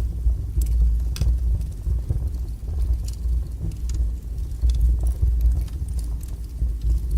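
Wood fire burning strongly in a fireplace: a steady low rumble of the flames, with scattered sharp crackles and pops of the burning logs.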